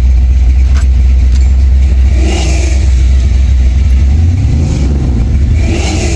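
Car engine running with a heavy, steady low rumble while driving; its note shifts about four seconds in. Two brief rushing swells rise and fade, around two seconds in and near the end.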